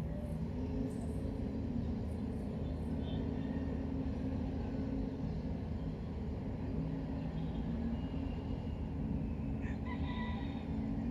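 Steady low background hum with a few faint, distant animal calls, the clearest near the end.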